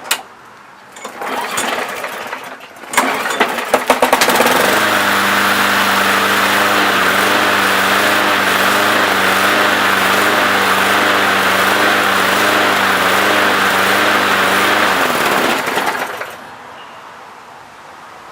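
Briggs & Stratton lawnmower engine pull-started with the recoil rope: it sputters and catches about three seconds in, then runs steadily at a constant speed before winding down and stopping near the end. The owner wonders afterwards whether its ignition timing is slightly off.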